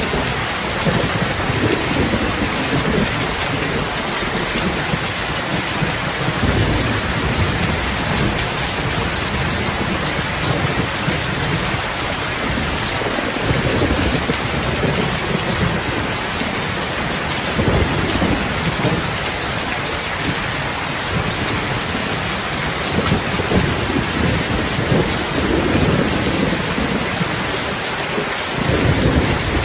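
Heavy, steady rain with low rolls of thunder swelling and fading at irregular intervals.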